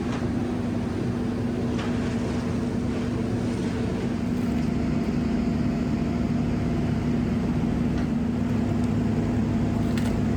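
Diesel engine of a Merlo crane running steadily under load, a constant low drone that grows a little louder and deeper about halfway through.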